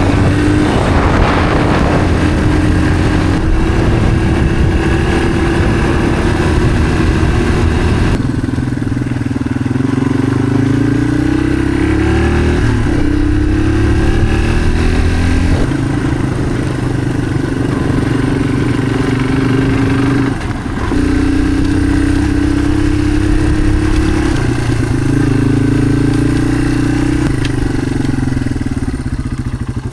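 Motorcycle engine running under way, its pitch rising and falling in stages as the rider changes speed, with a short dip about twenty seconds in.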